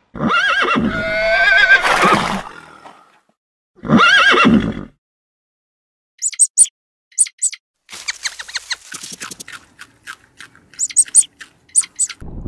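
A horse whinnying twice, with two long pitched calls in the first five seconds. After that comes a scattered series of short, high clicks and chirps.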